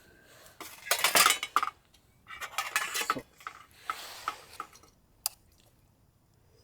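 Metal cutlery scraping and clinking against cookware in three short bursts, with a single sharp click about five seconds in.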